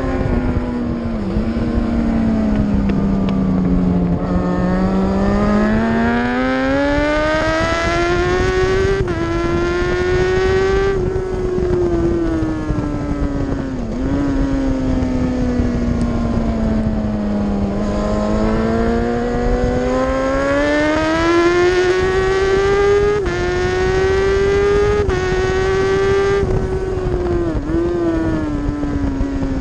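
Racing superbike engine heard from an onboard camera at speed, its pitch climbing slowly and sinking again over several seconds, twice, with brief dips at gear changes, over a steady rushing noise.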